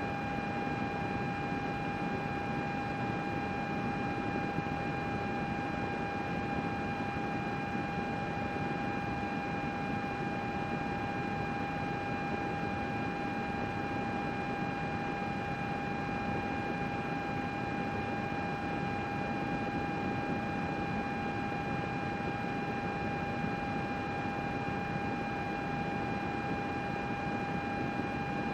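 Computer running steadily: an even fan whoosh with a constant high whine over it.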